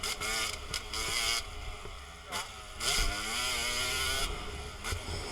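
250cc dirt bike engine revving up and down on a motocross track, with a rising rev about halfway through. A low rumble of wind on the microphone runs underneath.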